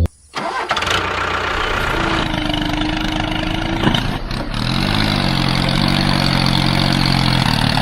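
Mini tractor's engine running steadily, its pitch briefly rising and falling about five seconds in.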